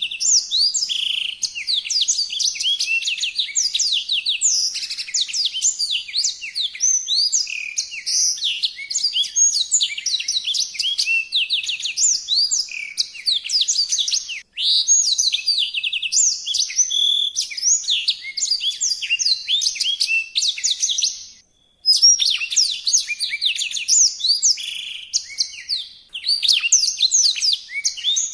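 A songbird singing vigorously in a rapid, unbroken stream of high chirps, trills and quick sweeping notes, with two brief breaks, about 14 and 21 seconds in.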